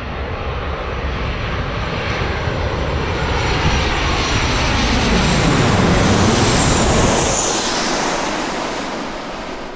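Jet airliner's engines passing close by: the sound grows steadily louder, peaks about six to seven seconds in with a high whine that falls in pitch, then fades.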